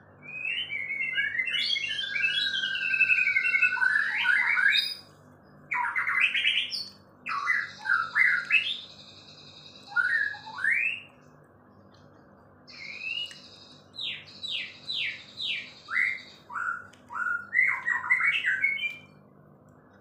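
A songbird singing varied phrases of quick whistled notes that sweep up and down, mixed with rapid trills. The song comes in a long opening phrase and then in shorter bursts separated by brief pauses.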